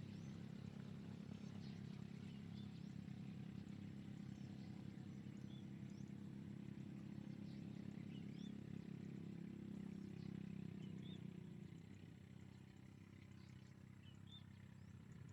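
Faint, short high chirps from nestling birds begging, repeated every second or two, over a louder steady low drone that eases off about twelve seconds in.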